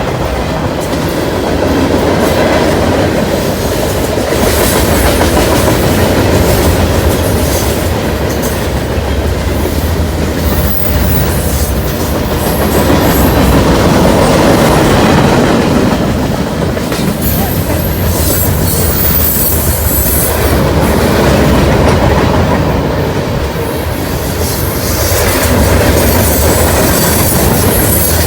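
Freight train cars rolling past at speed, a steady loud rumble of wheels on rail with clickety-clack over the rail joints and some wheel squeal, swelling and easing every few seconds.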